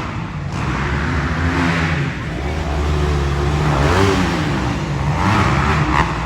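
Dirt-bike engines revving on an arenacross track, their pitch rising and falling as the riders work the throttle.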